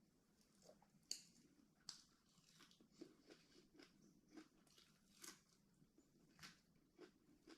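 Faint, irregular chewing and crunching, a person eating with crisp bites and soft mouth clicks about once or twice a second.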